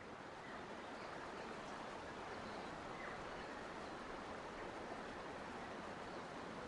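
Steady rush of flowing water with a few faint bird chirps.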